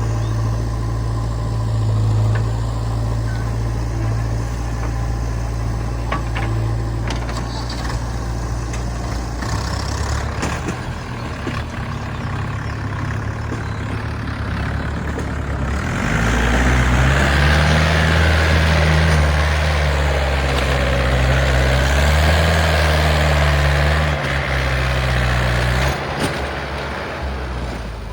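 Heavy diesel machinery engine running steadily, then revving up about halfway through and working hard, its pitch rising and falling with a rushing noise over it, before easing off near the end.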